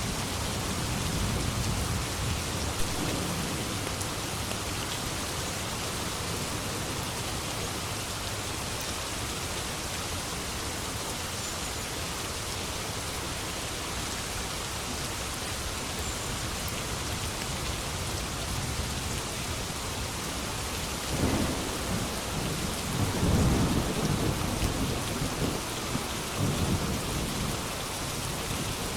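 Steady rain falling, with a rolling thunder rumble that swells about three-quarters of the way through, is loudest a couple of seconds later and dies away.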